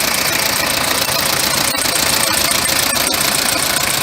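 Toyota 1KZ-TE four-cylinder turbo-diesel idling steadily with diesel knock.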